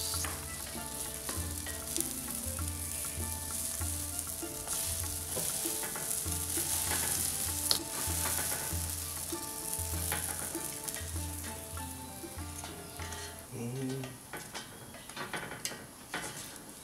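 Olive-oil-soaked bread sizzling on a hot flat-top griddle, with scrapes and taps of a metal spatula and fork against the plate as the slice is turned and pressed. A sharp tap comes about eight seconds in.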